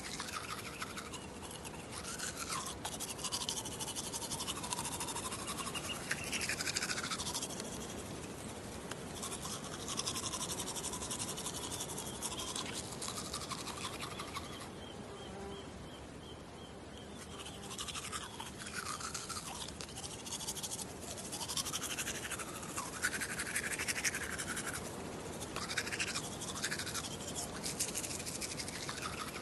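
Toothbrush scrubbing teeth in a mouth in quick strokes, the pitch of the scrub shifting as the brush moves. It eases off briefly about halfway through.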